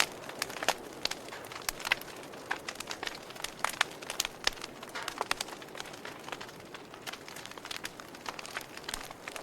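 Wood fire crackling: irregular sharp pops and snaps, several a second, over a steady soft hiss.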